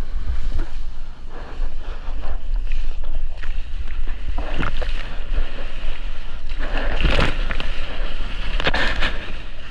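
Sea water splashing and sloshing close to a GoPro at the surface, with wind rumbling on its microphone throughout; two louder splashes come about seven and nine seconds in.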